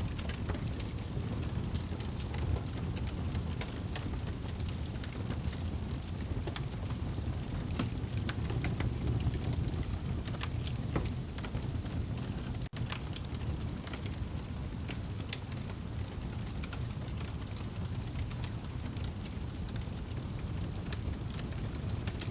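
Crackling fire and rain ambience: a steady low rumbling hiss with many scattered sharp crackles. The sound cuts out for an instant about halfway through.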